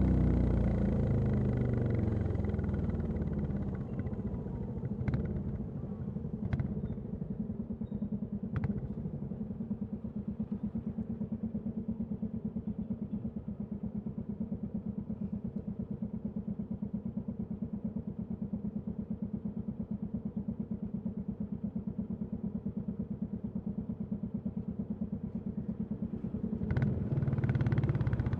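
Royal Enfield Classic 350 single-cylinder engine and exhaust. It slows from riding speed, then idles with a steady, even thump for about twenty seconds and picks up again near the end as the bike pulls away. A few short clicks are heard in the first nine seconds and again just before it pulls away.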